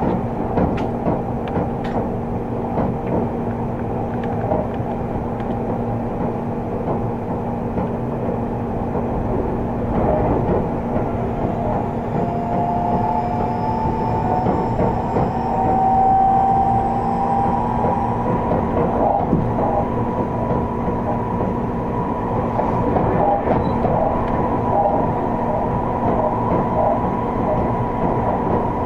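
Seibu 30000 series electric train running, heard from inside the passenger car: a steady rumble of wheels on rail with the air conditioning running. A whine rises slightly in pitch for several seconds midway.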